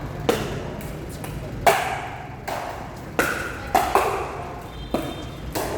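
Pickleball rally: paddles striking the plastic ball, about six sharp pops at uneven intervals, two of them in quick succession past the middle.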